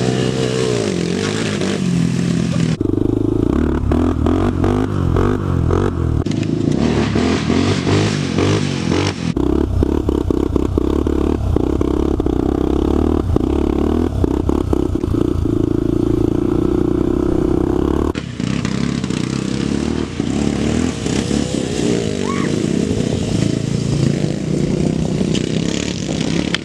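Small off-road vehicle engine running hard close by, its pitch rising and falling with throttle and gear changes during a chase. A run of rattling and clattering about a quarter to a third of the way in.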